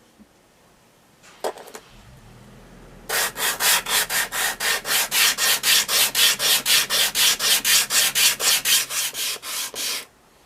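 Sandpaper or an abrasive rubbed back and forth on wood in quick even strokes, about four a second for some seven seconds, then stopping abruptly; a couple of light knocks come before it.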